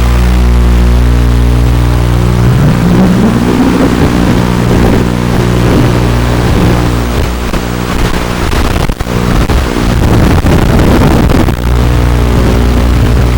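Brushless motors of a 180-size FPV quadcopter, first humming steadily, then spinning up with a rising whine about two and a half seconds in and buzzing unevenly in flight, mixed with rough wind noise. They settle back to a steady hum near the end.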